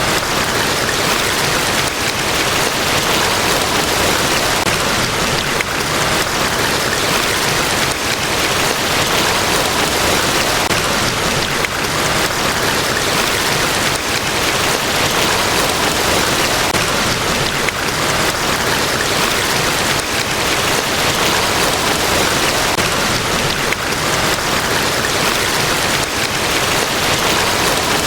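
Large waterfall: a steady, unbroken rush of falling water with no change in level.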